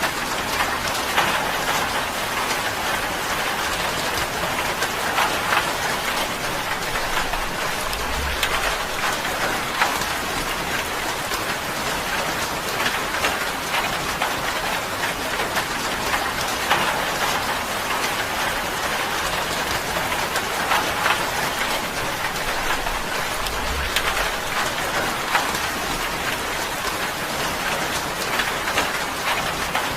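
Steady rain on a tin roof: a dense, even patter of drops on sheet metal.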